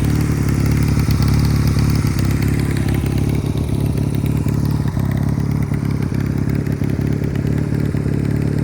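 Honda Rebel CMX250 motorcycle's air-cooled parallel-twin engine running steadily at a constant, low speed, with a fast, even exhaust pulse.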